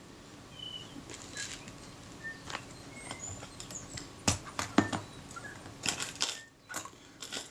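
Scattered small clicks and taps of metal camera parts and tools being handled at the bench, the sharpest pair about halfway through, with a few faint short high chirps in between.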